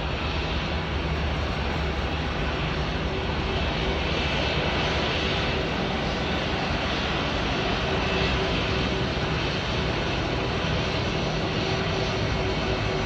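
Airbus A320-232 jet airliner's IAE V2500 turbofan engines running, a steady, even noise with a low hum and a steady tone that strengthens near the end.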